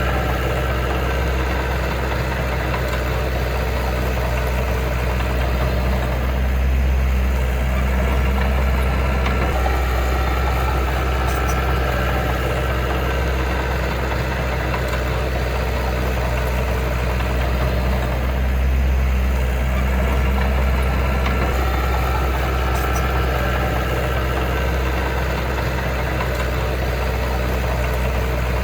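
Heavy diesel engine of earthmoving equipment running steadily with a deep, even rumble, swelling slightly a couple of times.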